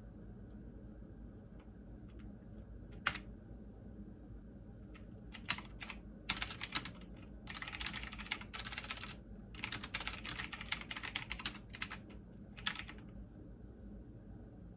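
Computer keyboard typing: a single key click about three seconds in, then quick bursts of keystrokes from about five and a half to thirteen seconds, over a steady low hum.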